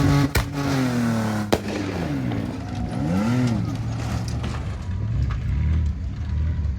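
Truck engine running at high revs on an off-road course, then falling off suddenly about a third of a second in with a sharp bang; a second bang follows about a second later. The engine then revs up and down and settles to a lower, steadier note.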